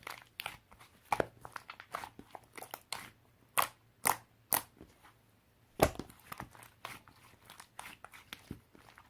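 Something crisp being chewed: irregular crunches and bites, with a few louder crunches from about three and a half to six seconds in.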